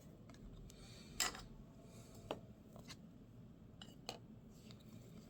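Baseball trading cards being handled and flipped through, giving a few faint, sharp clicks and slides of card on card, the clearest about a second in.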